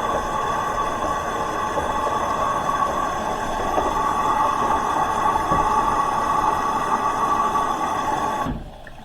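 Hoover H-Wash 300 Plus washing machine taking in water through its inlet valve, a steady rushing hiss with a few held tones. The fill cuts off suddenly near the end.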